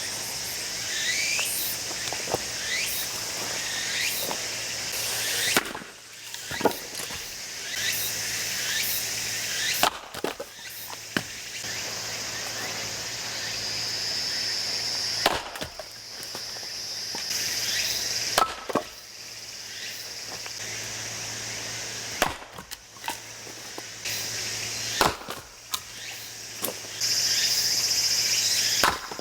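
Firewood being split with a heavy 3 kg PLOW splitting hammer axe: a sharp chop into a log every three to four seconds, with the wood cracking apart.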